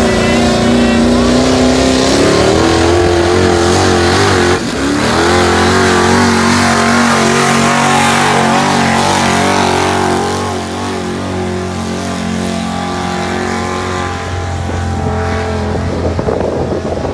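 Big-block 454 V8 in a 1949 GMC truck running at full throttle under the load of a pull; its revs climb over the first few seconds, break briefly about four and a half seconds in, hold high, then ease off and run lower from about ten seconds in.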